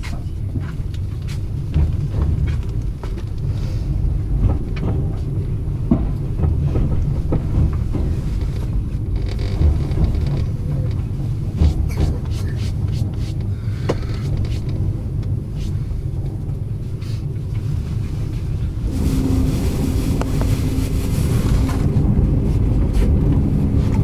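Passenger train in motion: a steady low rumble of wheels on the track with scattered knocks and clicks. About 19 seconds in, a hiss with a steady low hum comes in for about three seconds.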